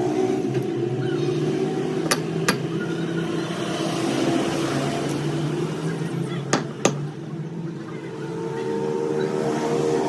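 A motor running steadily, with four sharp knocks: two about half a second apart near two seconds in, and two more near seven seconds.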